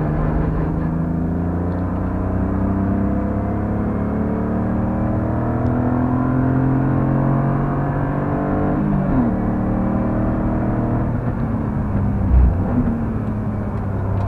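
BMW E46 328i's straight-six engine under load, heard from inside the cabin, its pitch climbing slowly for most of nine seconds. About nine seconds in the pitch drops sharply, then the engine runs on steadily. A brief low thump comes near the end.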